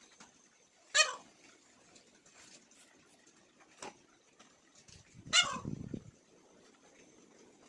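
An animal's short calls, three times, each falling quickly in pitch; the third comes with a brief low rumble. A faint steady high-pitched tone runs underneath.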